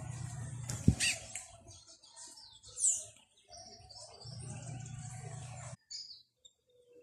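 Short, high chirps and calls of small birds, with a single sharp knock about a second in. A steady low hum underneath cuts off suddenly near the end.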